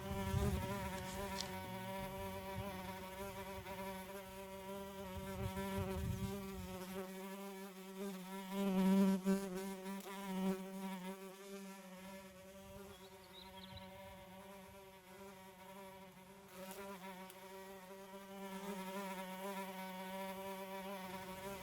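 A large swarm of midges humming steadily in the air, a faint even drone that almost sounds like a beehive or a faint motor running.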